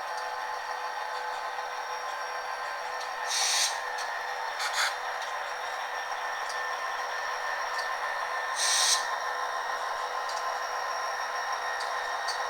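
A model diesel locomotive's sound decoder plays an SD40-2 prime mover through a small onboard speaker, giving a steady electronic-sounding hum. Three short hisses of air cut in, at about three seconds, about four and a half seconds and near nine seconds.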